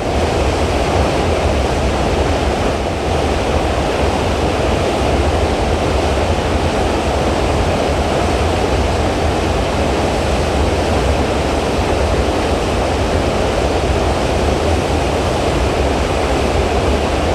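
Dry Falls, a waterfall on the Cullasaja River swollen by a day of heavy rain, giving a steady, loud rush of falling water.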